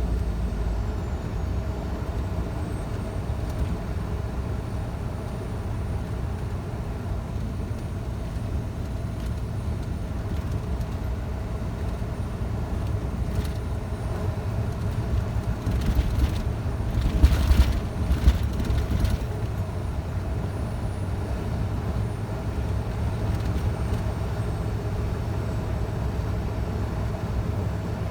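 Scania truck engine running steadily under way, a low drone with road noise. A little past halfway comes a brief cluster of louder knocks and rattles.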